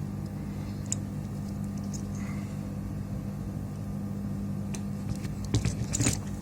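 A steady low electrical hum, with a few light clicks and taps of small parts or tools being handled.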